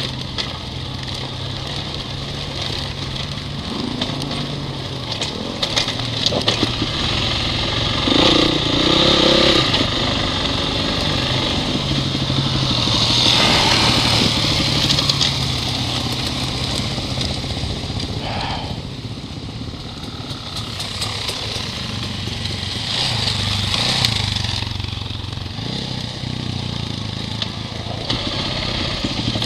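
Honda CRF dirt bike engine running at low, fairly even revs, with louder rushes of hiss about 8, 13 and 24 seconds in.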